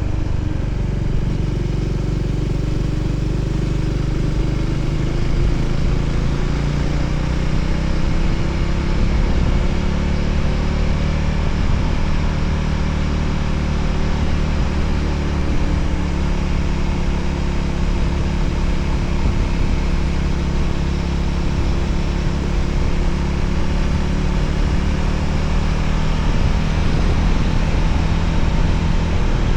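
Voge 300ACX motorcycle's single-cylinder engine running steadily under way, its note drifting up and down slightly, over a steady rushing noise.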